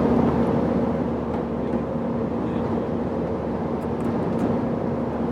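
Steady cabin noise of an Airbus A318 in flight: the even rush of engines and airflow, with a faint low hum running under it.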